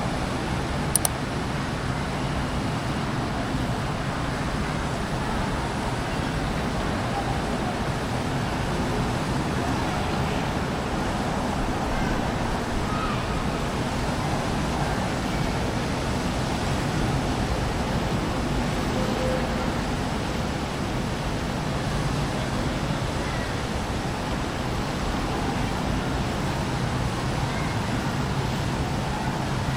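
Steady outdoor ambient noise, a constant rumble and hiss, with one sharp click about a second in.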